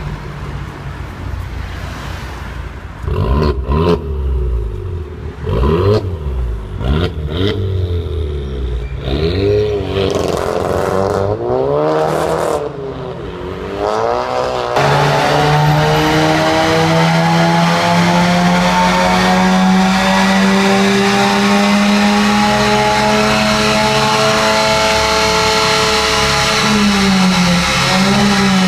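Seat Leon FR engine revved through an aftermarket remote-controlled Varex valve exhaust: a run of quick throttle blips with short sharp cracks between them, then, about halfway in, a long hold at high revs whose pitch climbs slowly and dips briefly near the end.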